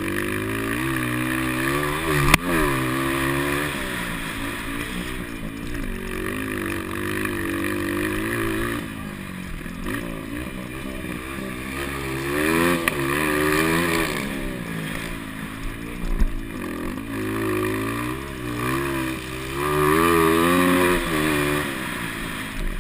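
Motocross motorcycle engines in the 200cc class revving hard and easing off as they race, their pitch rising and falling over and over. There is a sharp click about two seconds in.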